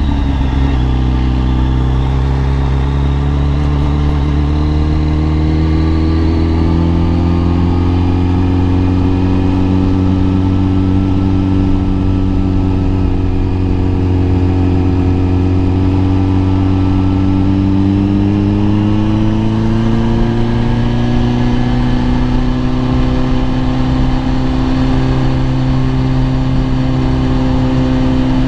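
Kawasaki ZX-10R's inline-four engine running under way, heard raw from the rider's position. Its pitch jumps at the very start, holds nearly steady, then climbs slowly about two-thirds of the way in.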